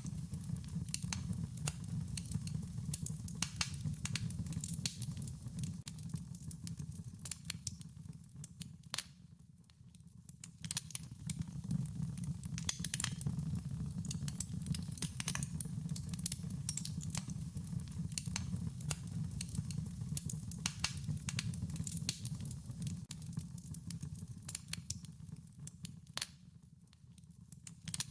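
Wood fire crackling, with frequent irregular sharp pops and snaps over a steady low rumble of burning. The crackling thins out briefly about nine seconds in and again near the end.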